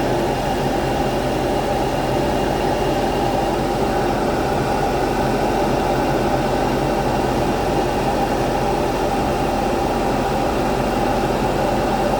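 2014 Audi A4 petrol engine idling steadily, with the misfire the owner reports still present after new genuine spark plugs and coils; it has set code P0300, random misfire.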